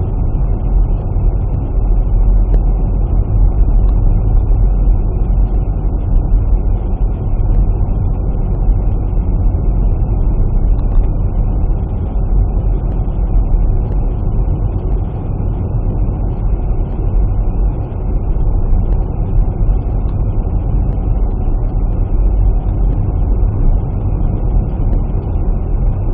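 Steady low rumble of a car driving, road and engine noise without change.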